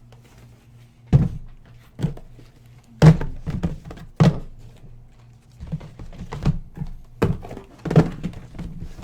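Sealed trading-card boxes being handled and set down on a table: about ten dull thunks at uneven intervals, over a faint steady hum.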